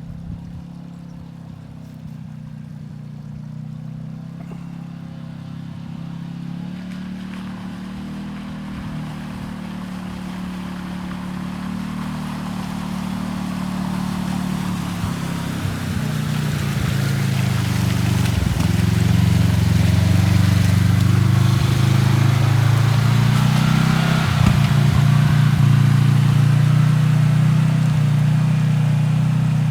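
A motor vehicle under way, its engine droning steadily, with road and wind noise building as it grows gradually louder.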